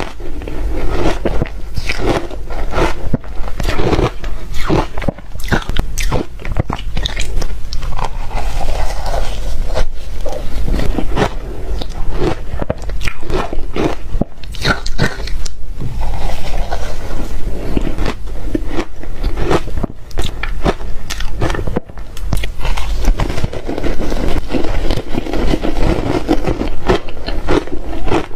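Shaved refrigerator ice being bitten and chewed: a dense, continuous run of loud, irregular crunches.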